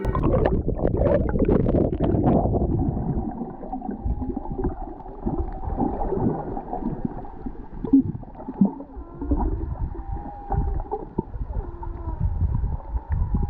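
Whale song heard underwater: drawn-out calls that glide up and down in pitch, clearest in the second half, over a bubbling, gurgling water noise that is loudest in the first couple of seconds.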